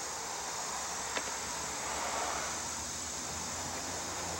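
Steady high-pitched drone of insects chirring outdoors, with one small click about a second in.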